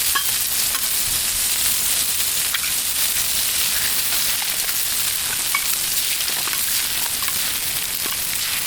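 Sausage and eggs frying in butter on a Blackstone griddle, a steady sizzle with scattered small pops and crackles.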